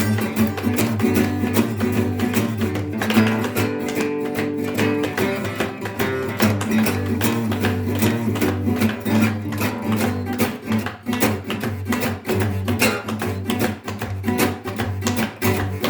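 Guitar music: a guitar strummed rapidly and rhythmically without a break.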